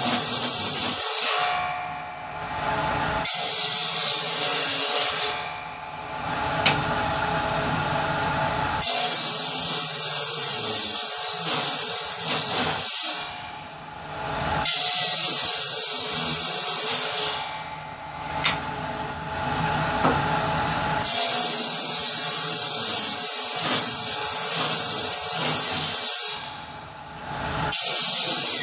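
Power saw cutting through firewood for kindling in repeated cuts: a loud, hissing cutting noise lasting a few seconds each time, about six times, with the saw running more quietly in the short breaks between cuts.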